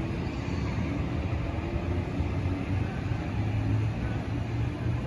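Steady low rumble and hum inside a Sydney Trains Waratah electric train carriage, with no change in pitch.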